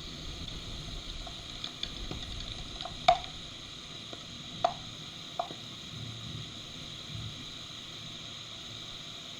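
Steady rain hissing, with a few heavy drops striking close by, the loudest about three seconds in and two more over the next two and a half seconds.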